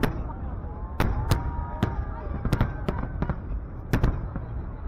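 Fireworks display bursting: a quick, irregular series of sharp bangs, several close together, over a continuous low rumble of distant shells.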